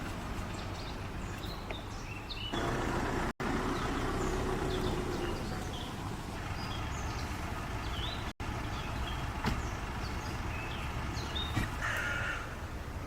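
Outdoor woodland ambience: scattered short bird chirps over a steady low rumble, broken by two abrupt cuts.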